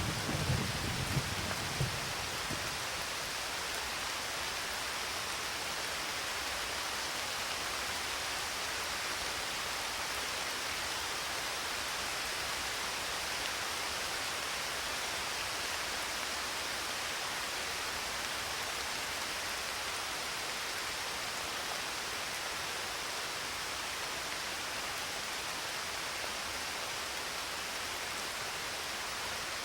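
Steady rain hiss, with the tail of a thunder rumble dying away over the first two seconds.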